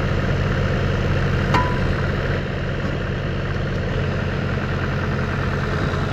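TimberKing 2520 portable sawmill's engine idling steadily, freshly started to power the hydraulics. A single short beep sounds about a second and a half in.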